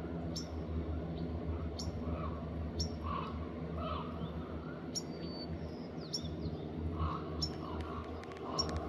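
Short, high bird chirps repeating about once a second, with softer lower calls between them, over a steady low hum.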